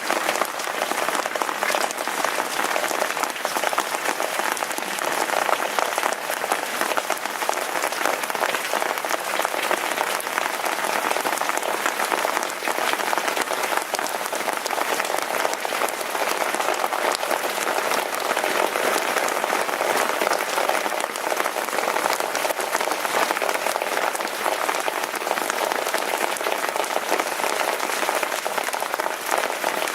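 Steady, dense rainfall: a loud, even patter of many drops with no let-up.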